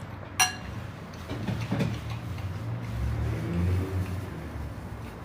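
A single sharp clink of a utensil against a dish about half a second in, then low, muffled sounds of eating close to the microphone.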